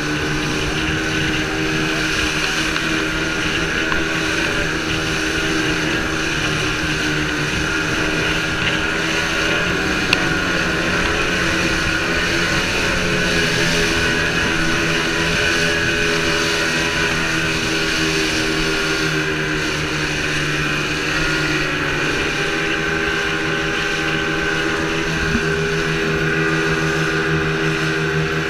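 Boat's outboard motor running steadily under way, its engine note shifting a little about two-thirds of the way through.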